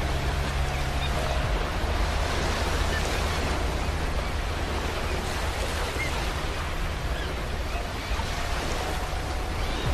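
Ocean surf washing steadily onto a beach, a continuous even rush of wave noise.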